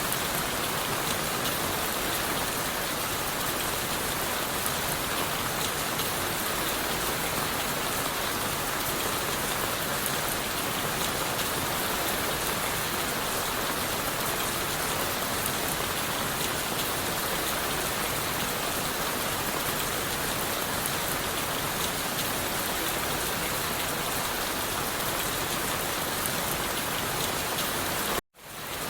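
Steady rain falling on leaves and wood, a dense even hiss of many small drop hits. Near the end the sound cuts out abruptly for a moment and fades back in.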